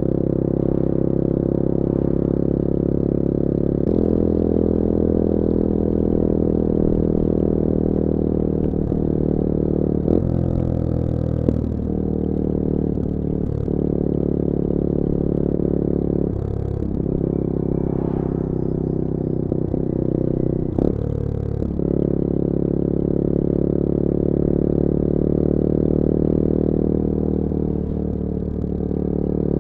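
The Bullit Hero 250's CF Moto 250cc four-stroke engine running steadily while riding. The engine note breaks briefly three times, about ten, sixteen and twenty-one seconds in, then picks up again at a new pitch, typical of gear changes.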